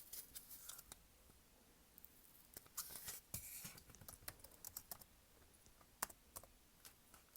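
Faint handling noise at close range: scattered light clicks and taps, with a brief rustle about three seconds in.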